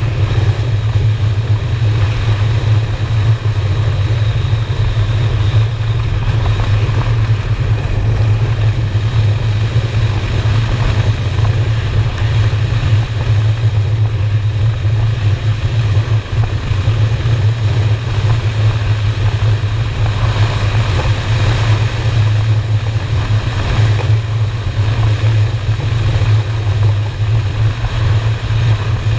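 Honda Shadow motorcycle's V-twin engine running steadily at cruising speed, with steady rushing wind and road noise on the camera microphone.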